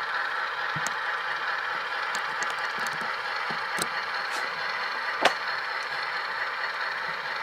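Tsunami sound decoder's diesel engine sound from a model PA locomotive, played through its single 1-inch speaker as the model runs along the track: a steady thin drone with no low end. A few light clicks come through, the sharpest about five seconds in.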